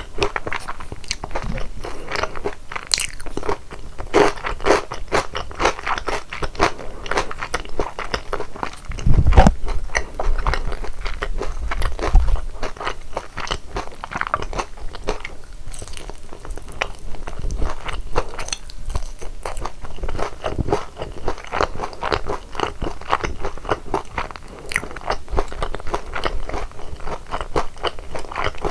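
Close-miked crunching and chewing of sauced boneless fried chicken (yangnyeom chicken), with irregular crisp crackles from the coating as it is bitten and chewed. There are two heavier low thuds about nine and twelve seconds in.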